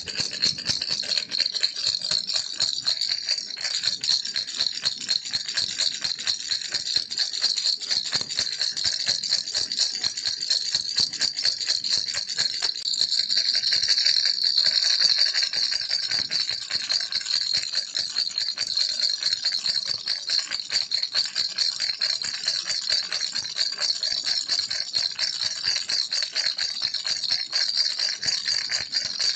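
Baby rattle shaken rapidly and continuously, a dense bright rattling of small beads against the shell that swells a little about halfway through.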